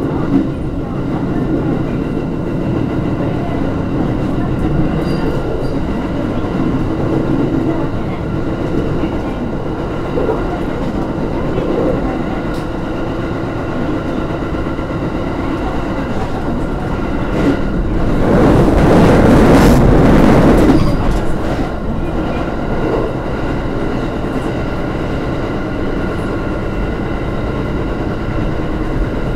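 Electric train running at speed, heard from inside the rear cab: a steady rumble of wheels on rail. About two-thirds of the way through it swells into a louder rushing noise for about three seconds, then settles back.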